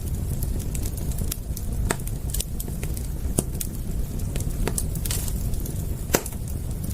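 Wood fire crackling: irregular sharp pops and snaps over a steady low rumble of burning, with a louder pop about six seconds in.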